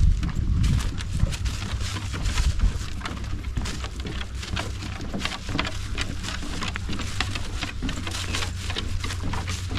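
Footsteps crunching on dry ground, many small irregular crackles, over a steady low rumble.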